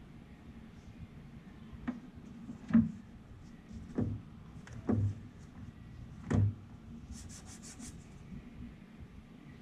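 Hand work under a car's hood: five separate sharp knocks and clunks of tools or parts being handled, then near the end a quick run of about eight small, high clicks in under a second.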